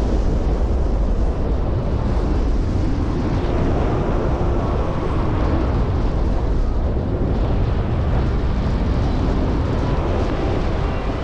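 Steady rush and buffeting of wind over the microphone in flight, a loud, deep rumble with no tone.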